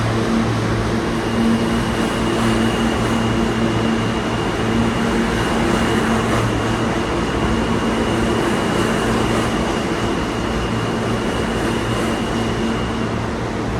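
R160 New York City subway train running steadily, a continuous rumble with a low hum and a thin high-pitched tone that drops out briefly near the end.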